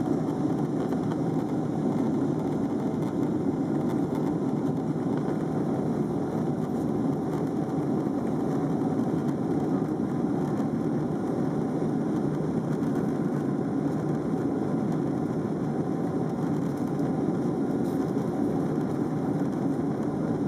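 Steady jet airliner cabin noise, the engines and airflow heard from inside the passenger cabin as an even low rumble.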